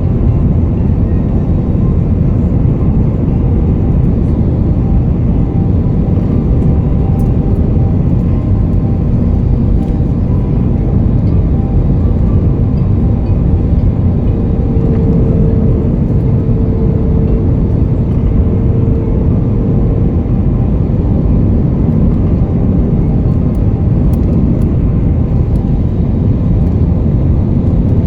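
Steady cabin noise of an Airbus A320neo in flight, a loud, even rumble of airflow and engines heard from inside the passenger cabin. A faint steady hum joins it for a few seconds midway.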